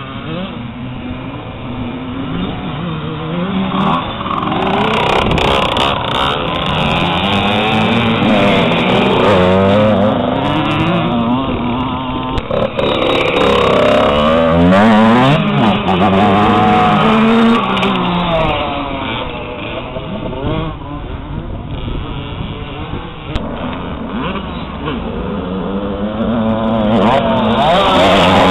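Motocross dirt bike engines revving up and down as the bikes accelerate and shift, several engines overlapping, with pitch rising and falling throughout.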